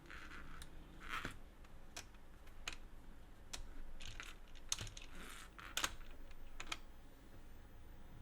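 Hands handling plastic toy parts and packaging: a string of irregular sharp plastic clicks and snaps, with short crinkly rustles in between.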